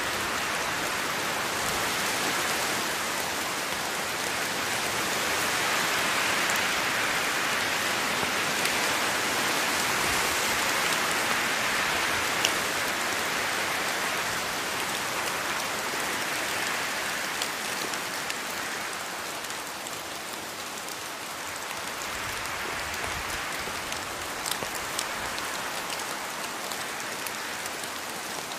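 Steady rain falling on rainforest foliage, a continuous patter with a few sharper drops standing out, swelling a little and easing off again.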